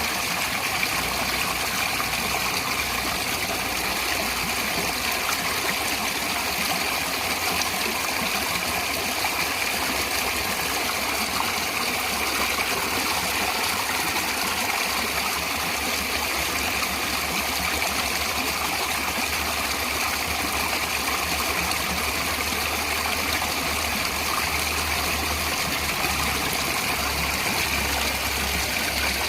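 Natural flowing water, a stream or small fall, rushing and splashing steadily, with a low rumble that comes and goes underneath.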